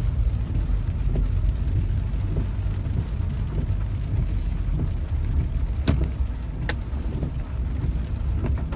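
Car driving, heard from inside: a steady low rumble of engine and tyres, with two sharp clicks about six seconds in.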